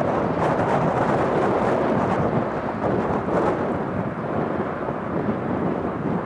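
Jet aircraft engine noise: a loud, rumbling roar with a crackling edge, easing slightly toward the end.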